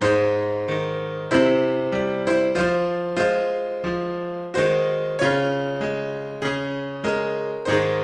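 Piano chords played slowly, each struck chord ringing and fading before the next, with bass notes under them and no voice.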